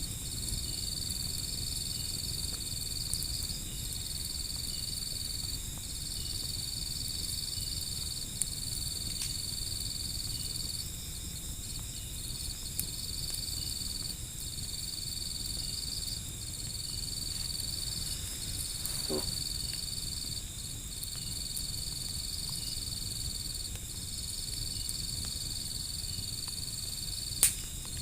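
Insects trilling steadily in long high pulses with short gaps between them, over the low rustling rumble of a wood fire. There are a few faint pops, and one sharp, loud crack near the end.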